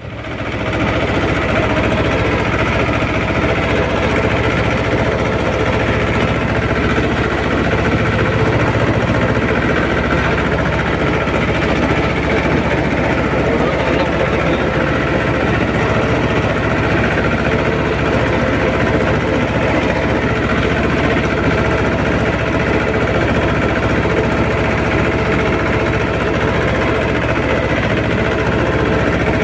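Mahindra 24 HP mini tractor's diesel engine running steadily. It gets louder in the first second, then holds an even, constant beat.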